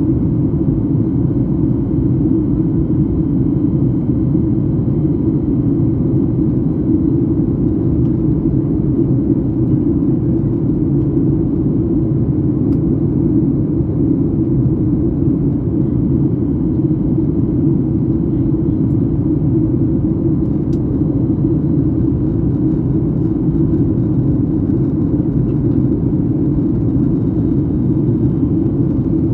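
Airliner cabin noise in flight: the steady, low, even noise of the engines and the airflow, unchanging throughout.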